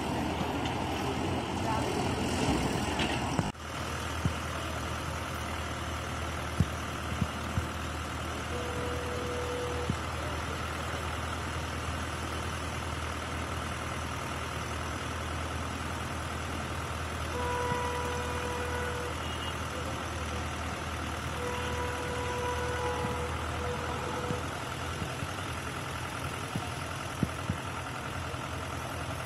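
An electric train rushing past at speed for the first few seconds, cut off suddenly. Then a distant approaching electric locomotive, a WAP-5, gives a steady low rumble, and its horn sounds three times, faint and held for one to three seconds each.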